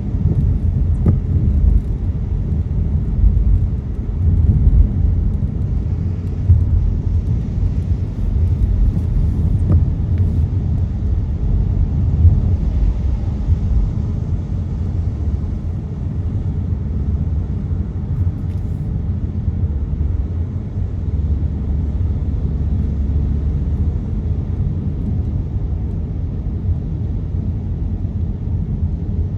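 Steady low rumble of tyres and engine heard from inside a car driving on rain-wet city roads, with a faint hiss above it.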